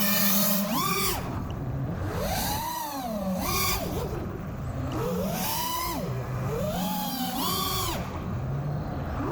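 FPV quadcopter's brushless motors whining, the pitch repeatedly rising and falling as the throttle is worked in flight.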